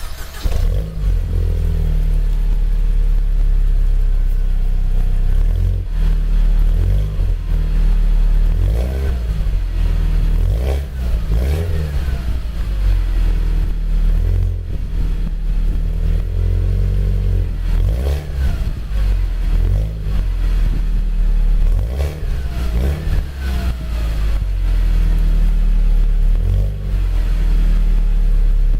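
Mercedes SLK 200 Kompressor's supercharged four-cylinder catching on a cold start, then running through original AMG silencers with the secondary catalytic converter replaced by a straight stainless pipe. It idles with several blips of the throttle, clustered in the middle and again later on.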